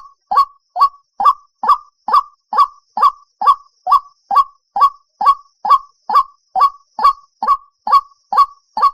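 White-breasted waterhen calling: a single short, hoarse note repeated in an even, unbroken rhythm of about two and a half calls a second.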